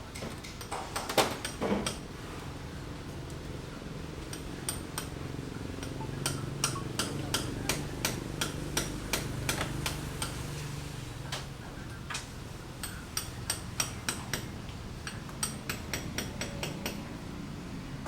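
Construction work: irregular sharp taps and knocks, about two a second, like hand tools striking hard material, over a steady low rumble. The loudest knocks come about a second in.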